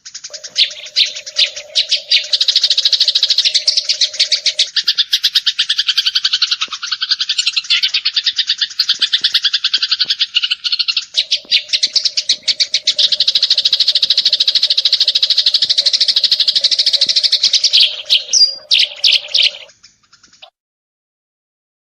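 Eurasian tree sparrows giving a fast, continuous run of high chirps, the rapid-fire chatter prized by bird keepers, which breaks off about 20 seconds in.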